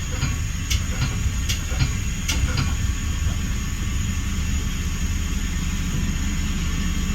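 Metra bi-level commuter train running on the rails, heard from inside the front cab car: a steady low rumble with light sharp clicks about every 0.8 seconds over the first few seconds.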